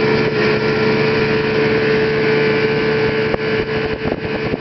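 Boat's outboard motor running at a steady speed, holding one even pitch.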